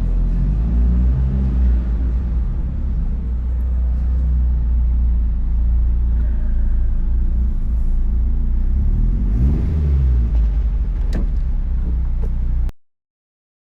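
Turbocharged 1.8-litre four-cylinder engine and cat-back exhaust of a 2004 Mazdaspeed Miata under way, a deep steady rumble. About three quarters in, the engine note rises and then falls. The sound cuts off abruptly near the end.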